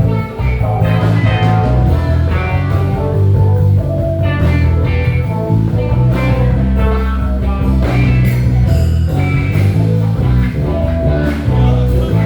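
Live band playing an instrumental with a rock-blues feel: guitar lines over a heavy bass and drum kit.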